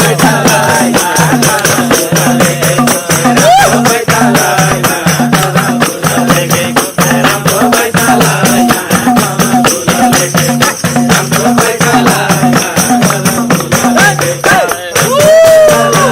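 Nepali folk music with a fast, even tambourine-like jingle beat over a steady low drone, with wavering melody lines above.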